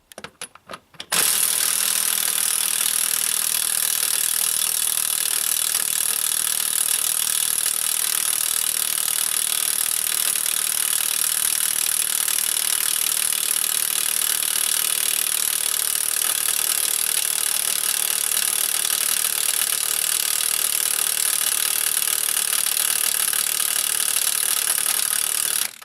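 A power tool working on a seized tractor wheel nut, its motor starting about a second in and running steadily with a loud, high hiss until it stops abruptly at the end.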